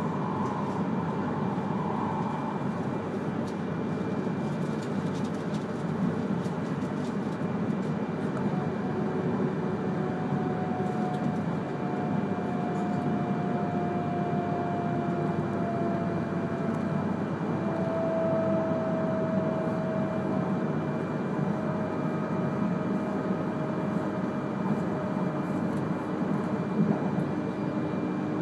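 E3 series Komachi shinkansen train running on conventional track, heard inside the passenger cabin: a steady rumble of wheels and running noise. Through the second half a faint whine slowly falls in pitch.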